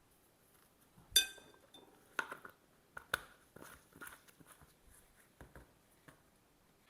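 A metal measuring spoon clinking and tapping against a bowl while spooning in dry seasoning: one sharp ringing clink about a second in, two more clinks soon after, then lighter taps.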